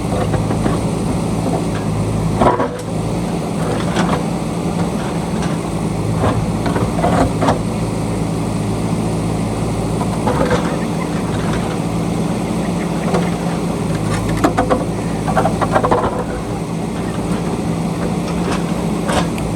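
JCB backhoe loader's diesel engine running steadily under load, with scattered knocks and scrapes from the digging.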